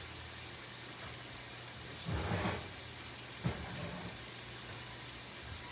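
Steady hiss of food cooking on the stove, with a soft knock about two seconds in and a sharper click about a second later.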